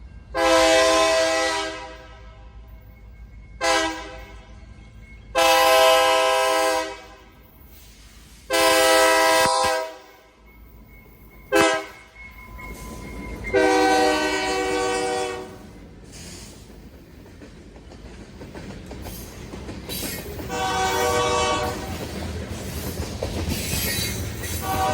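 A diesel locomotive's horn sounds a series of blasts, long ones broken by two short ones, typical of a train whistling for a grade crossing. After that the rumble and clatter of the train rolling nearer builds, with one fainter horn blast.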